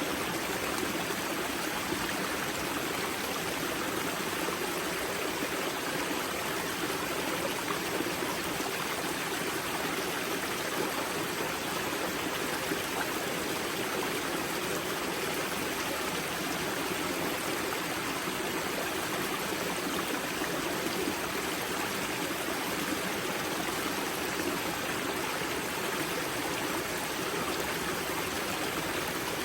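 Spring-fed mountain river rushing and splashing over rocks at its source, a steady, even flow of water.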